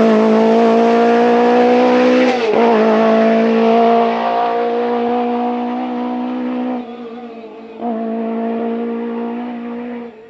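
Rally car engine held at high, nearly steady revs. The revs dip briefly about two and a half seconds in, the sound drops away for about a second around seven seconds, then comes back on before fading out near the end.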